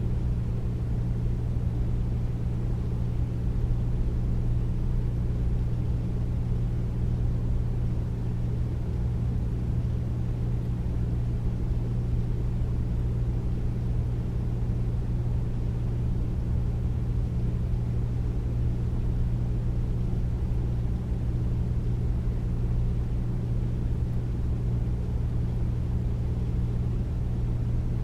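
Air conditioner running steadily, a deep hum with a whoosh of moving air over it and no change throughout.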